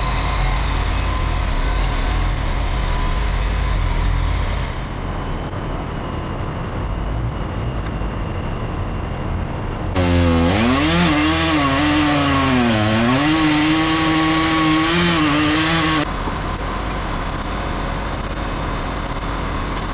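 A heavy engine drones steadily. About halfway through, a chainsaw starts revving, its pitch rising and falling for about six seconds before it cuts off suddenly.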